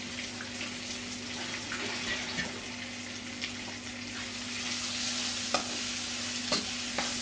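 Pieces of Mekong giant catfish sizzling in hot oil in a wok with dried chillies, stirred with a metal spatula that clinks against the wok several times. The sizzle grows louder about halfway through, over a steady low hum.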